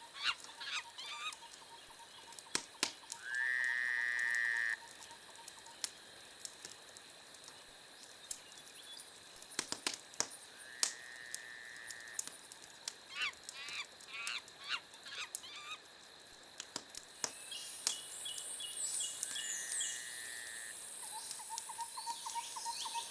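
Crackling wood fire with bird calls over it: quick chirping runs, three held whistle-like notes a few seconds apart, and a rapid pulsed call near the end.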